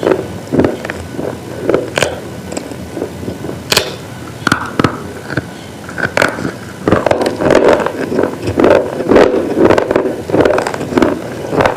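Close-up crunching of brittle, chalky slate items being bitten and chewed: a few separate sharp cracks, then from about seven seconds in a louder, steady run of chewing crunches, two or three a second.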